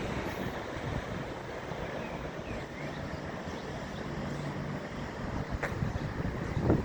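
Steady rumble of vehicle noise nearby.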